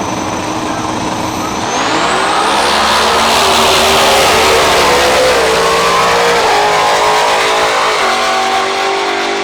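Two Mustangs accelerating hard at full throttle, their engines joined by a high whine that climbs in pitch, sounding like a jet. The noise swells about two seconds in and stays loud as the cars pull.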